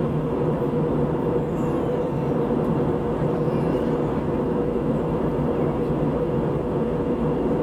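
Steady airliner cabin noise in flight: the engines and rushing air make an even drone with a constant hum, heard from inside the cabin.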